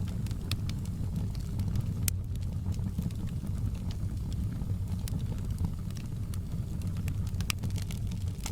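Wood fire burning in a fireplace: a steady low rumble of flames with irregular sharp crackles and pops, a few louder snaps about two seconds in and near the end.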